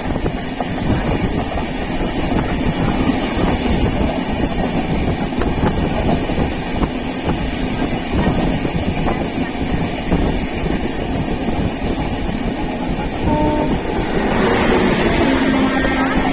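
Steady low rumble of a moving vehicle. About fourteen seconds in, a hiss rises and a few faint steady tones sound over it.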